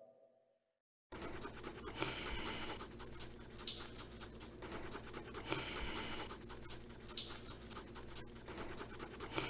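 Scribbling on a floor with a drawing implement: a steady run of quick scratching strokes that starts about a second in, after the last of a music fade dies away.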